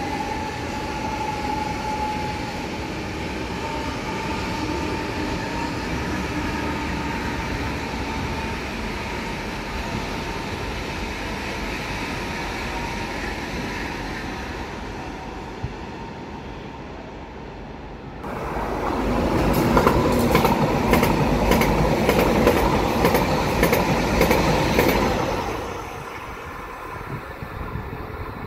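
Electric trains running through a station. First, one train's traction motors whine with a pitch that rises slightly before fading away over about fifteen seconds. Then a second train passes close by for about seven seconds, much louder, with a rapid clatter of wheels over rail joints.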